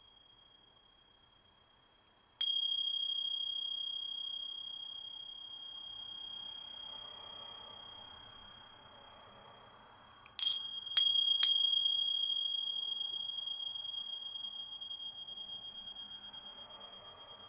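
Tingsha, small hand bell-cymbals, struck once and left to ring with a single high clear tone that slowly fades. About eight seconds later they are struck three times in quick succession, and the renewed ring fades away gradually.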